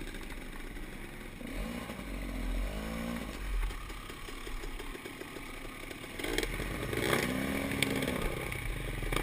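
Off-road enduro motorcycle engine running and revving up and down twice over a low rumble, with a few sharp clattering knocks partway through.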